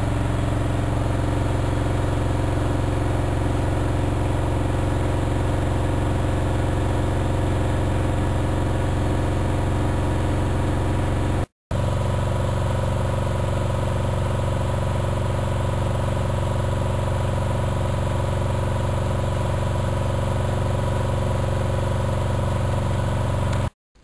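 Miele Novotronic W 2200 front-loading washing machine running steadily at high speed, most likely its final spin, with a loud low hum and whine. Its drum shock absorbers are admitted to be worn. The sound cuts out for a split second a little before the middle and stops abruptly just before the end.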